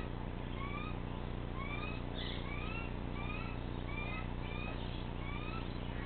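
A bird calling with short, rising whistled notes repeated over and over, over a steady low hum.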